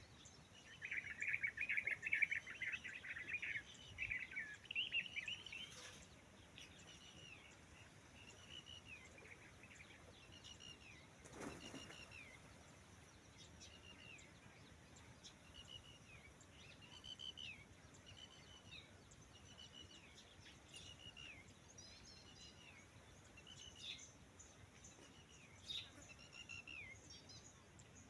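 Birds calling: a burst of rapid chattering chirps in the first few seconds, then a single short chirp repeated about once a second.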